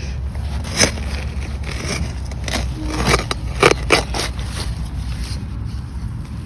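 Digging in soil to recover a detected target: a few sharp scrapes and crunches of a digging tool in the dirt, about a second in and again around three to four seconds in, over a steady low rumble.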